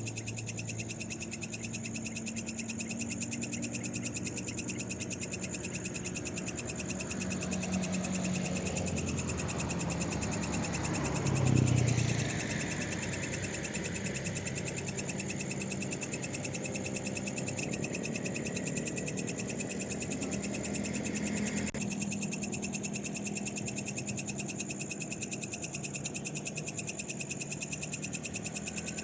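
Night chorus of frogs and insects calling steadily. A vehicle passes about 11 seconds in, growing louder and then fading.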